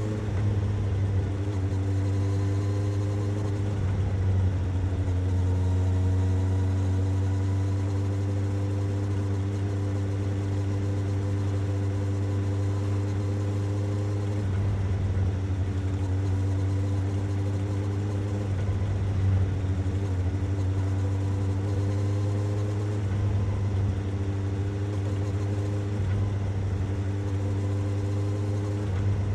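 Suzuki GSX-S750 motorcycle's inline-four engine idling steadily, its pitch lifting slightly a few seconds in before settling.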